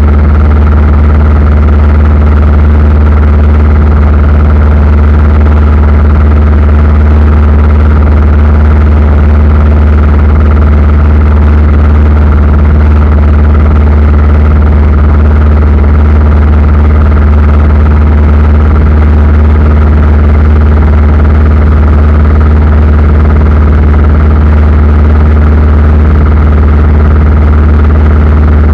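Aircraft engine drone heard inside the passenger cabin in steady flight: a loud, unchanging low hum with several steady tones above it.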